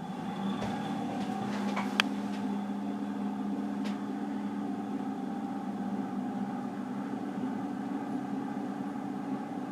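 Emerson Casablanca friction-drive ceiling fan running with a steady hum, with a few light clicks in the first couple of seconds. With the speed knob turned higher, the friction drive only gets louder, not faster.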